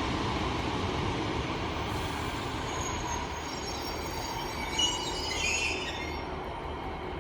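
Two coupled Class 150 Sprinter diesel units moving slowly along the platform with a steady rumble. High-pitched wheel squeals rise and fade in the middle.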